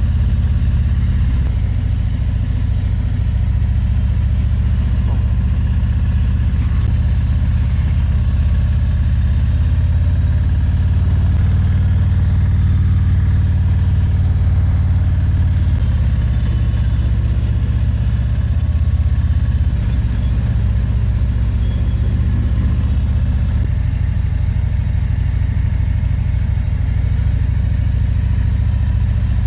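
Harley-Davidson Road Glide's V-twin engine running steadily at low road speed, its note shifting to a new level a few times.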